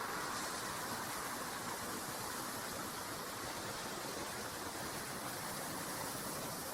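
Jet airliner engines heard as a steady rushing noise, easing slightly in level.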